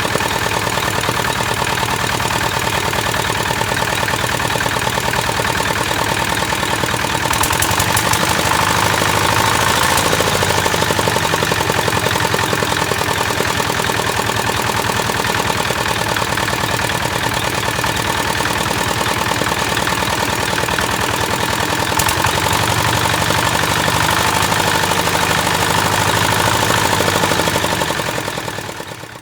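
Tractor engine running steadily with a rapid, even knocking beat, fading out near the end.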